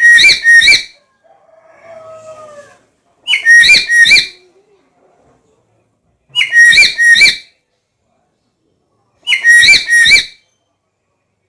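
Black-capped lory calling: four loud, shrill double whistles, one about every three seconds, each two quick notes. A softer, lower gliding call comes between the first and second.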